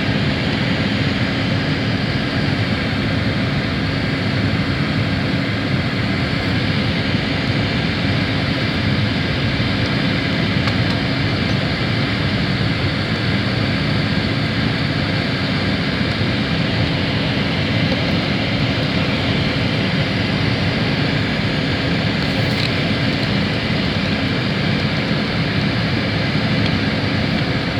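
Boeing 767-300ER's twin jet engines at high takeoff thrust, heard inside the passenger cabin as a steady, unchanging engine noise with a low hum and a higher whine held throughout.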